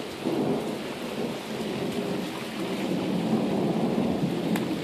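Steady rain falling on pavement and grass: an even, constant hiss.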